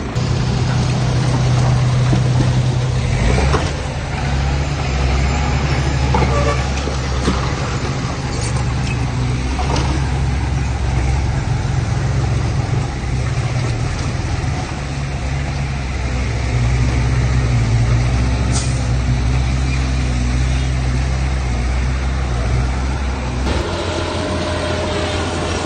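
Heavy diesel engine of earthmoving machinery running hard and steadily, with a few metallic clanks. Near the end the engine note changes and eases off.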